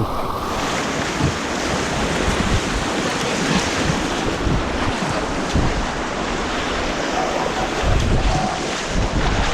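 Rushing white water of an artificial whitewater course, a steady dense rush of rapids close to the microphone, with the water and wind buffeting it harder about 8 seconds in.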